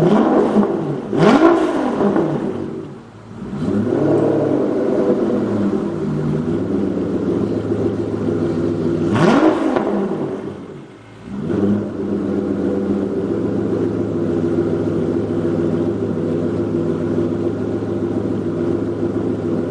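Aston Martin DB9's V12 running warm through an RSC Supersport exhaust with a cat-delete X-pipe, revved twice, about a second in and about nine seconds in. Each rev rises and falls quickly, the sound drops briefly as the revs come down, then it settles back to a steady idle.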